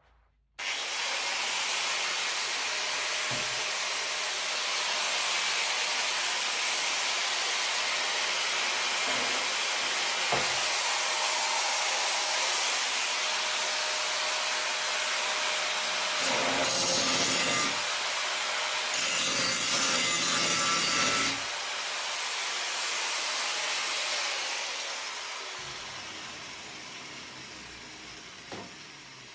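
Abrasive power tool working on car body metal, a harsh steady rasp. It starts suddenly, grows harsher twice in the second half, then fades away.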